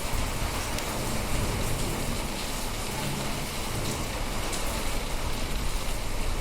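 Heavy rain pouring steadily, with low rumbling gusts of wind against the microphone.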